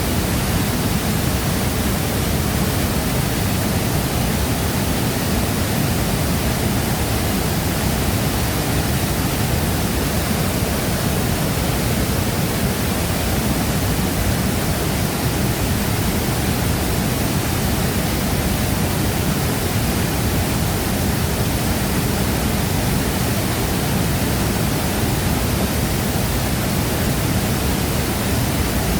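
Waterfall's water falling and crashing into the plunge pool: a loud, steady rush that does not change.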